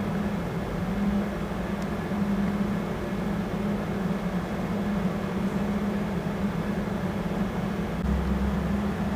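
A machine running steadily with a low hum, having switched on abruptly just before.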